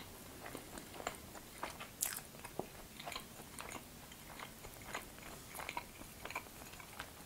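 Close-miked chewing of homemade waffle pieces, with small crunches and sharp clicks scattered irregularly throughout.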